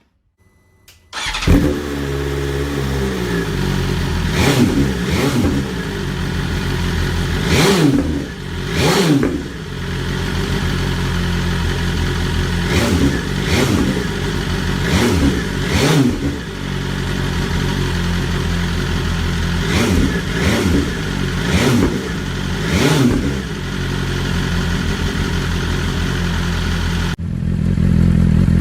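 BMW S1000 superbike's inline-four engine starting up about a second in, then idling through its exhaust with about a dozen quick throttle blips that rise and fall, some in pairs. Near the end the sound changes abruptly to a lower, steadier note.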